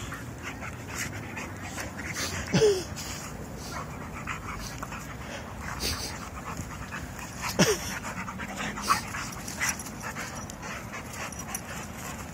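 Two dogs play-fighting: scuffling with many small clicks and knocks, and two short whines that fall in pitch, one about two and a half seconds in and one near eight seconds.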